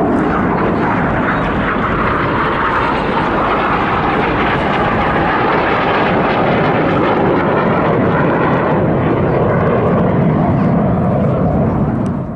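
BAE Hawk T1 jets of the Red Arrows flying over, a loud, steady jet rumble.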